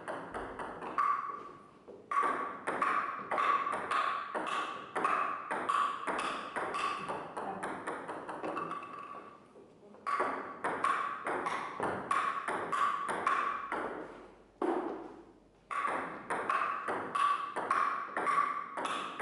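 Table tennis ball hit back and forth: a steady run of sharp, ringing pings, about three a second. Twice the run breaks off in quick, fading bounces as the ball settles, then starts again.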